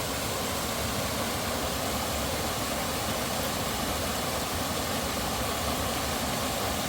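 Steady, unbroken rush of water falling and running in a creek at a waterfall.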